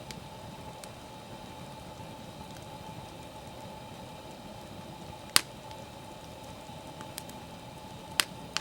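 Wood fire burning with a steady low hiss and sharp, isolated crackling pops, the loudest about five seconds in and another near the end.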